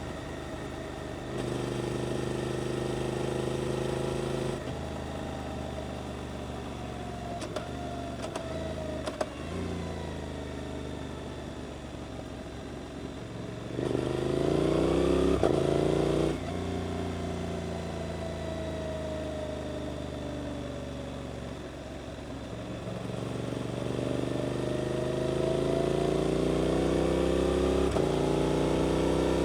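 Suzuki GSX-8S parallel-twin with an aftermarket Arrows exhaust, riding through bends. The engine note drops as the throttle closes and climbs as it accelerates out again. It gets loudest in a sharp rise about halfway through and in a long climb near the end.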